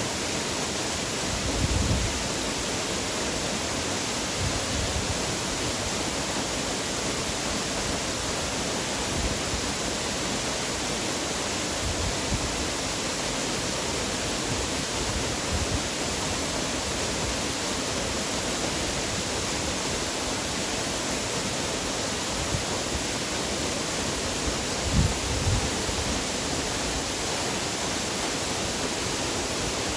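Waterfall's steady rush of falling water. There are brief low thumps about two seconds in and again near twenty-five seconds.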